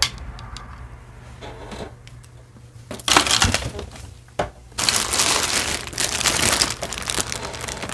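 Crinkly packaging being handled and crumpled, in two bursts of crinkling with a few light clicks before them.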